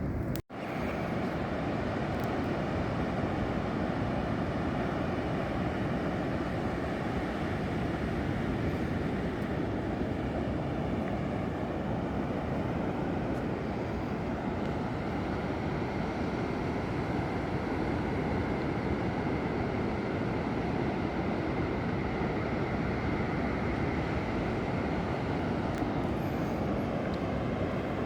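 Steady rushing of sea surf breaking on the beach, a continuous low rumble that briefly cuts out about half a second in.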